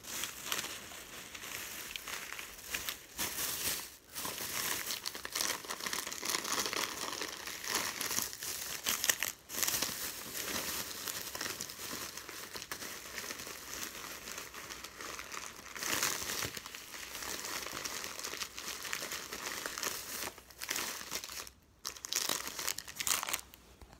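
Plastic crinkling and rustling as shopping purchases are handled, nearly continuous with a few brief pauses.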